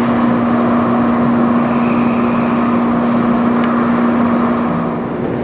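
Steady, loud engine noise: a rushing sound with a constant low hum underneath, easing off slightly near the end.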